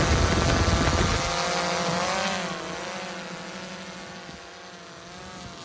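A drone's propellers buzzing, the pitch wavering up and down and fading steadily as it flies away. A loud low rushing noise fills the first second or so.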